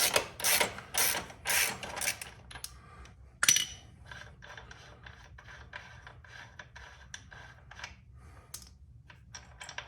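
Ratchet wrench clicking as it runs a loosened nut off: quick loud ratcheting strokes for about two seconds, a sharp click a little after three seconds in, then faint fast ticking.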